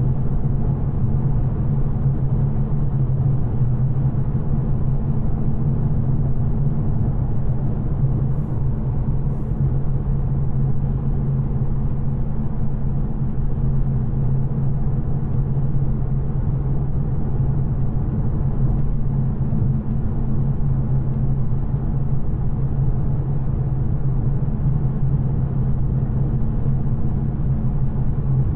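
2024 Mustang GT's 5.0 L Coyote V8 running steadily at an even cruise, a constant low drone over road rumble with no revving. The exhaust is stock, without headers.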